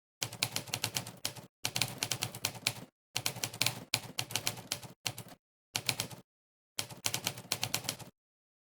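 Monkeytype's typewriter key-strike sound effect, one click per keystroke, in fast runs broken by short pauses. It stops about 8 seconds in, leaving dead silence.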